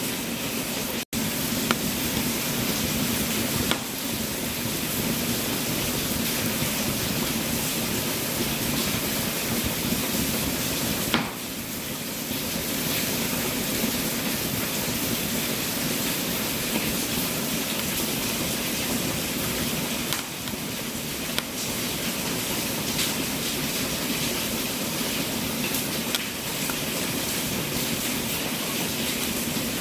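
Wood fire burning in a fireplace: a steady rushing hiss with scattered small crackles and pops. The sound cuts out for a split second about a second in.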